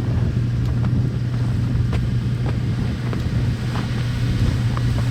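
A car driving, with a steady low drone of engine and road noise and a few light scattered ticks.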